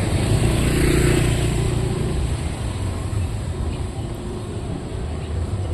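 Street traffic: steady engine rumble of motor vehicles, with one passing close by about a second in.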